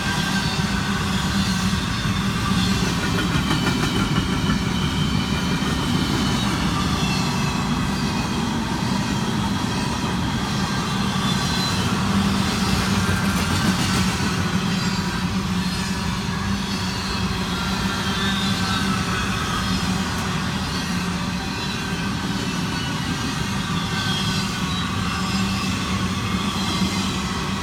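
A train rolling past with a steady, continuous rumble of wheels on rail.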